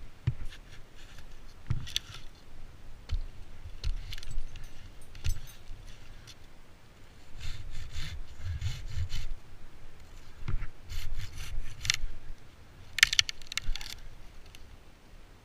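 Irregular rasping and scraping of wood in short bursts, with low knocks between them and no engine running.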